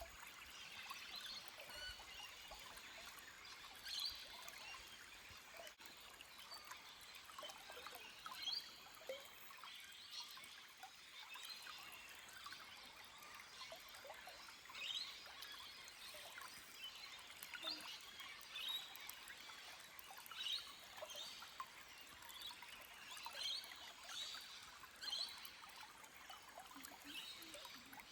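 Small stream trickling over rocks, with scattered short bird calls.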